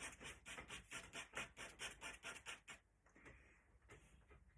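Faint rapid pen strokes scratching on paper while inking a drawing, about six short strokes a second, stopping a little under three seconds in.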